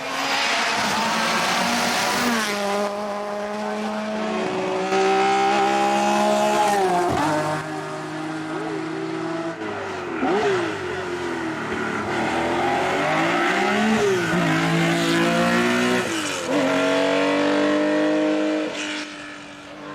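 Race car engine under hard throttle on a hillclimb, its revs stepping with gear changes and dropping and rising again as it lifts and accelerates through corners.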